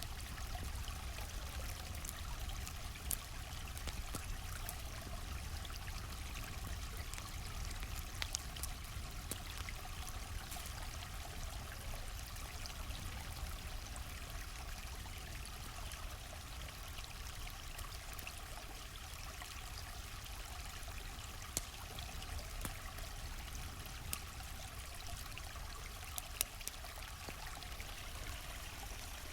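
Steady rushing of a flowing stream, with scattered sharp pops and crackles from a campfire a few times throughout.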